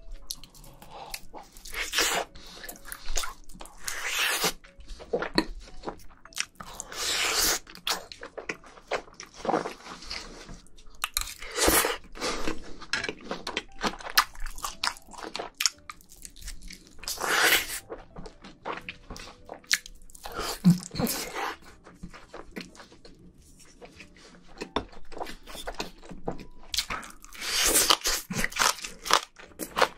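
Close-miked chewing and biting of a person eating pork belly and green onion kimchi, with loud, crunchy bites every few seconds between softer chewing and a quieter stretch a little past the middle.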